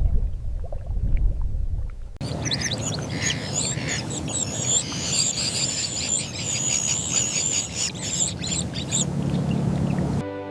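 Birds calling, with high chirps over a steady rushing background that starts suddenly about two seconds in after a low rumbling opening, and cuts off just before the end.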